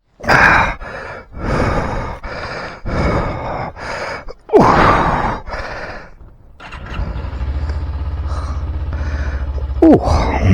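A run of short, loud noisy bursts, then from about seven seconds a small Suzuki motorcycle engine running at a steady idle with a fast, even pulse. A brief falling tone sounds near the end.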